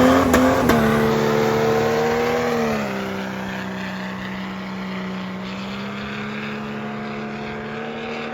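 A mud-drag vehicle's engine held at high revs, with two sharp clicks in the first second. About three seconds in it eases off to a lower, steady note and grows gradually quieter.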